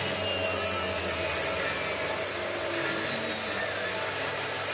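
Hotpoint 9534A washing machine running, a steady motor and drum whir with a low hum and a faint high whine that falls slowly in pitch.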